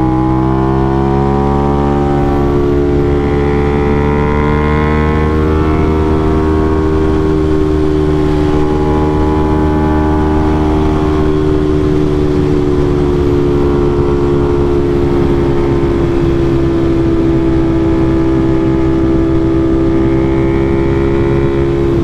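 Aprilia RS660 parallel-twin engine through an SC Project CRT aftermarket exhaust, running at a fairly steady engine speed; the pitch rises slightly a few seconds in, then eases back and holds.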